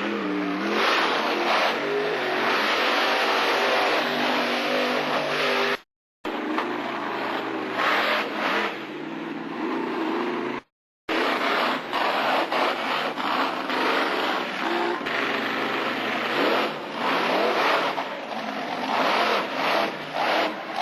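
Monster truck engine revving hard, its pitch rising and falling again and again, with two short dropouts to silence where the footage is cut.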